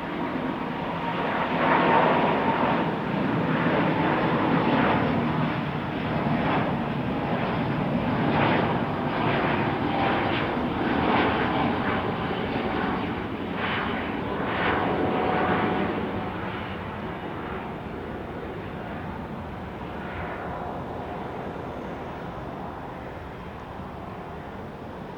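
Jet airliner's engines passing close by, loudest for the first sixteen seconds with a rough, crackling roar and a steady whine, then fading away.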